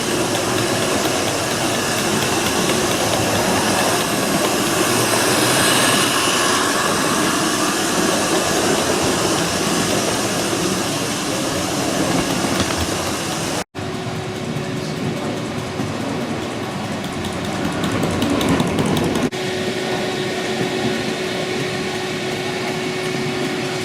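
G-scale model trains running on a track layout, a steady hiss and rumble. The sound breaks off sharply about two-thirds of the way through and changes again a few seconds later.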